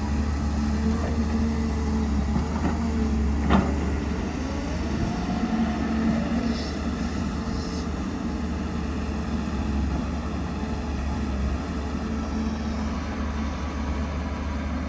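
Excavator's diesel engine running steadily with a low drone, a whine rising and falling about five seconds in, and a single sharp metallic clank about three and a half seconds in.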